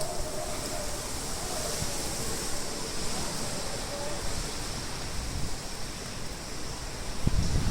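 Steady rushing of typhoon wind and rain, with gusts buffeting the phone's microphone and a stronger gust near the end.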